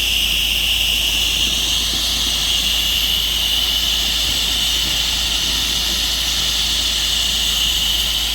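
Pressure-washing rig running steadily while spraying water on a hangar, a constant hiss that does not let up.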